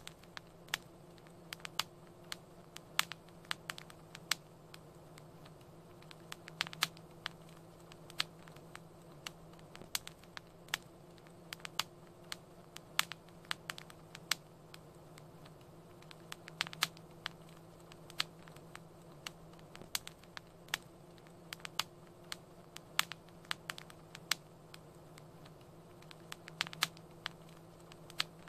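Wood fire crackling in a fireplace: irregular sharp pops and snaps, several a second, over a faint steady low hum.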